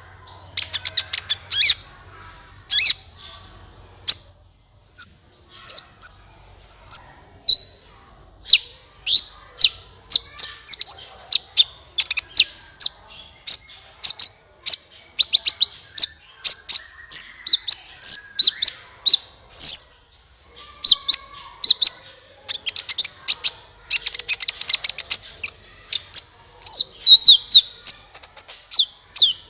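Kolibri ninja sunbird song played as a bird-lure call: rapid runs of sharp, high-pitched chirps and trills in quick bursts, thinner for a few seconds early on and again about two-thirds through.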